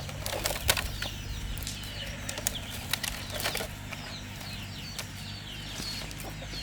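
Birds chirping in short, quick calls, with scattered sharp knocks and clatters that are loudest in the first second.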